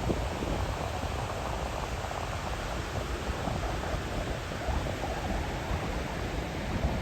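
Ocean surf with wind buffeting the microphone: a steady rushing noise with an uneven low rumble underneath.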